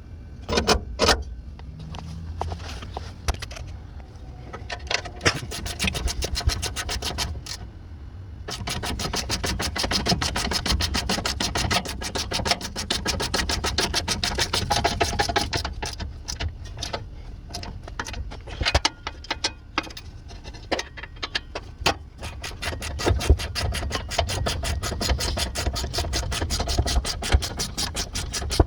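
Socket ratchet being worked: a fast, even run of metal clicks that starts after a few scattered clicks, pauses briefly around the middle and resumes, over a low rumble.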